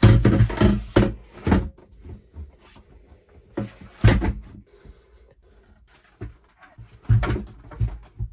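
Hard knocks and clatter of a window air conditioner's mounting frame being pushed and knocked into a vehicle's window opening, in bursts near the start, around four seconds in and again about seven seconds in.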